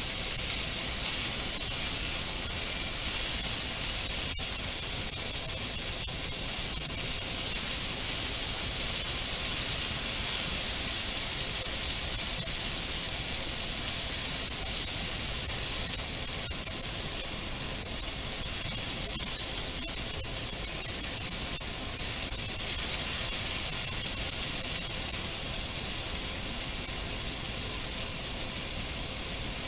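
Pork and sliced long green onion sizzling as they stir-fry in a frying pan, a steady hiss that swells louder twice, with a few faint clicks.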